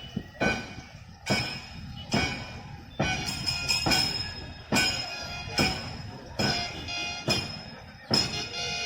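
A snake boat crew rowing in unison: a sharp beat a little more than once a second keeps the stroke, about ten times, with high held tones sounding over it.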